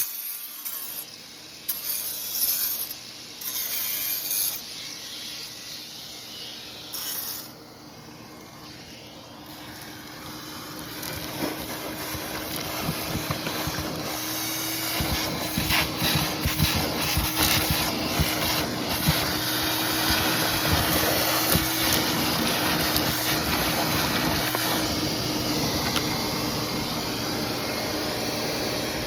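Angle grinder cutting into a concrete crack: after a few short stop-start bursts it runs continuously, getting louder and rougher about a third of the way in, with a steady motor hum under the grinding noise.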